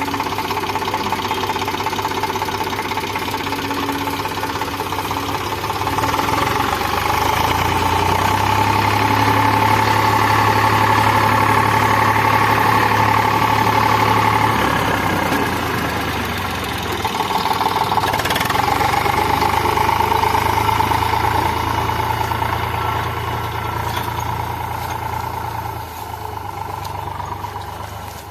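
Eicher 485 tractor's diesel engine working hard as the stuck tractor strains to pull free. It builds up and holds loud for several seconds, eases off, rises again, then dies down toward the end.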